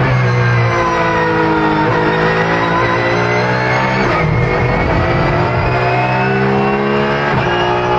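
Race car engine running at high revs, its pitch sliding down and jumping back up several times, mixed with background music.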